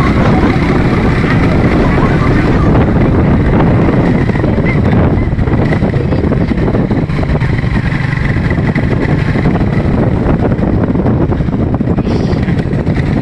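Loud, steady engine and road noise of a fast-moving vehicle heard from on board, with wind buffeting the microphone.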